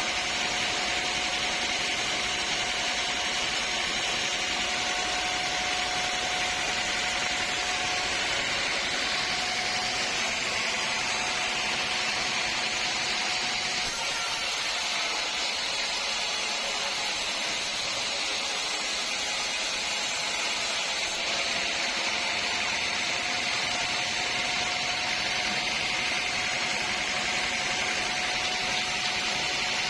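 Woodworking machinery at a sawmill running steadily: an even mechanical hiss with a constant whine.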